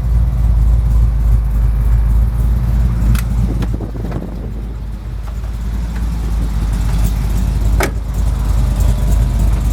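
Chevelle wagon's 427 big-block V8 idling steadily with the air conditioning running, a load on the engine at idle. The level dips for a second or two midway, and there are a couple of brief clicks.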